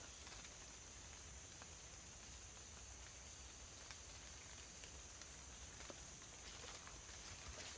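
Quiet tropical forest ambience after rain: a steady high-pitched insect drone, with scattered faint clicks.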